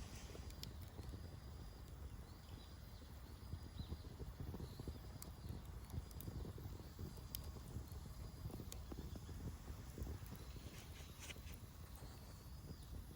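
Campfire burning, with scattered sharp crackles and pops over a low rumble. A faint high call repeats every second or so in the background.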